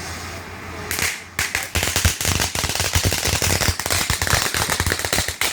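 Fireworks going off: a short hiss about a second in, then a rapid, continuous run of sharp bangs and crackles, many per second.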